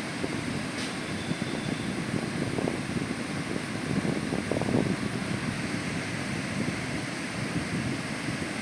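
Steady rush of ocean surf breaking on the beach, mixed with wind.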